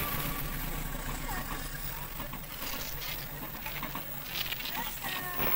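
Passenger train coaches rolling past at a level crossing, heard from inside a car: a steady rolling rush with scattered clicks from the wheels on the rails, a few louder near the end.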